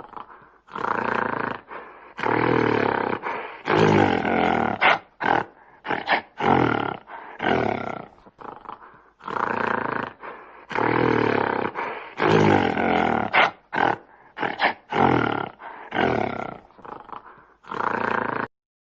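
A large animal roaring: several long roars followed by a string of shorter, quicker grunting calls, the sequence starting over about halfway through.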